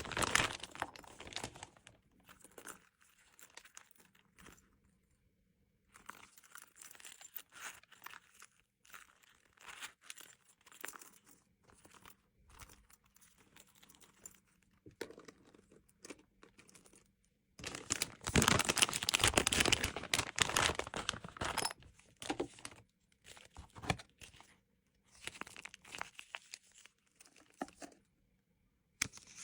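Plastic packaging crinkling and rustling in bursts as small gift items are handled and packed, with a longer, louder stretch of crinkling and tearing about two-thirds of the way through.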